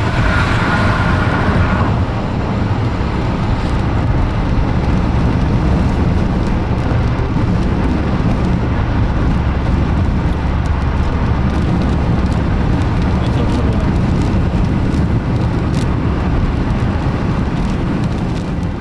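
Car driving at speed, with a loud, steady rush of wind and road noise buffeting the microphone inside the cabin.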